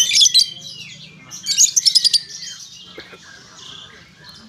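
A small bird chirping in two quick bursts of rapid, sharp, high notes about a second and a half apart, with a short falling whistle after the first burst.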